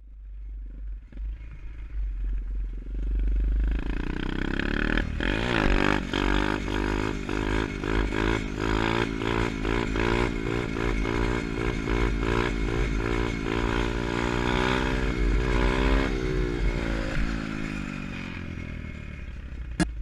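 Orion 125cc pit bike engine running and revving. About five seconds in the pitch climbs, then it rises and falls over and over, easing to a steadier, lower note in the last few seconds.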